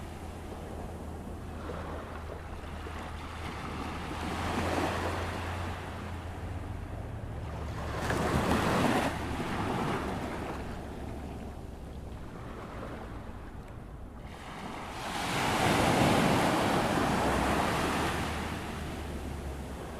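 Atlantic surf breaking on a sandy beach as the tide comes in, a steady wash with two larger waves swelling up, one about eight seconds in and a longer one about fifteen seconds in. A faint low hum runs under the surf.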